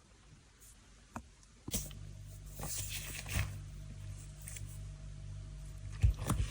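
Butter-fizz textured slime being worked by hand, giving clicking, crackling pops, over a steady low hum that comes on about two seconds in. A few louder sharp clicks come near the end.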